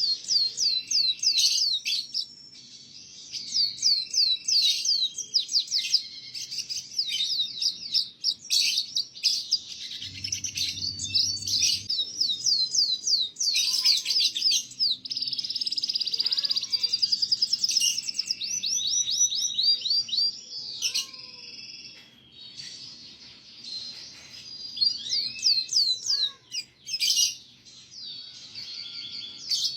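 Domestic canary singing a long, fast song of rapid repeated chirps and rolling trills, with short pauses between phrases: a master-song recording used to tutor young canaries.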